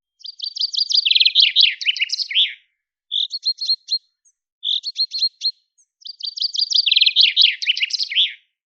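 A small songbird singing: a long fast twittering phrase of repeated notes that runs into a lower warbling, twice, with two short chirping bursts between and dead silence in the gaps.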